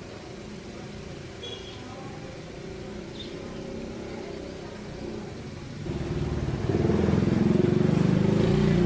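Vehicle engine running low and steady, then getting much louder about six seconds in, as if revved or pulling away.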